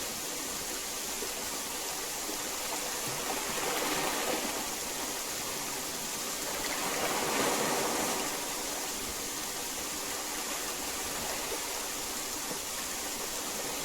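Heavy rain falling steadily, an even rushing hiss that swells a little twice.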